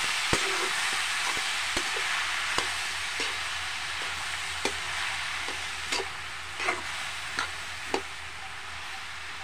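Diced bottle gourd sizzling in hot oil in a steel kadhai while a metal spatula stirs it, scraping and clicking against the pan about once a second. The sizzle eases off slightly toward the end.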